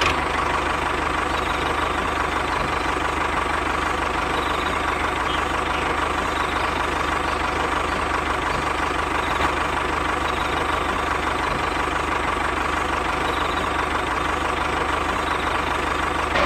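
A motor running steadily at a constant speed, with a steady whine and a low hum.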